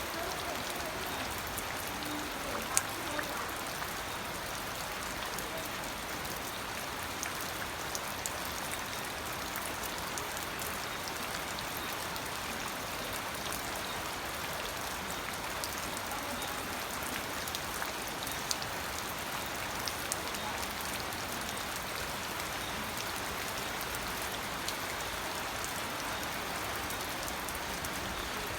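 Steady rain falling, an even hiss with scattered sharp drop clicks; the loudest click comes about three seconds in.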